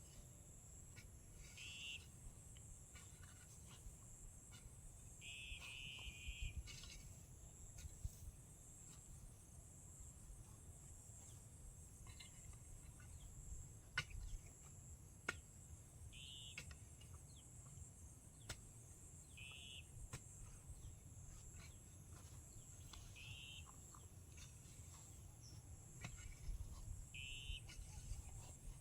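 Faint rural ambience: a steady high-pitched drone of insects, with short bird calls repeating every few seconds and a few light clicks and knocks.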